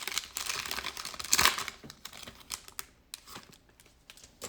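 Crinkling of a plastic trading-card pack wrapper and cards being handled, busiest in the first couple of seconds, then thinning to scattered light clicks and taps.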